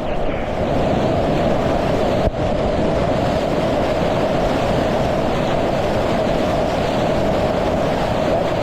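Loud, steady rush of whitewater churning around the kayak, heard up close.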